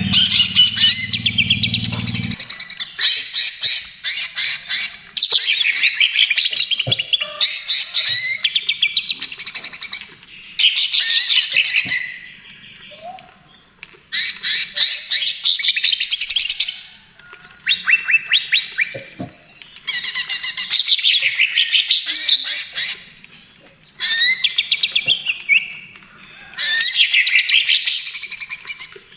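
A cucak ijo (greater green leafbird) sings loud, rapid, harsh chattering phrases, each a second or two long, repeated with short pauses between them. A low hum underlies the first couple of seconds.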